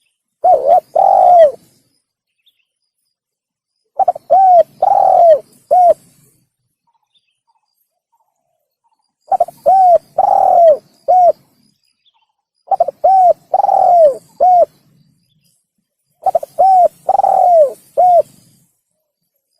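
Spotted dove (tekukur) cooing song played as a bird-trapping lure call: five phrases of short, hollow coo notes, each phrase with one longer note, repeating every three to four seconds with complete silence between them.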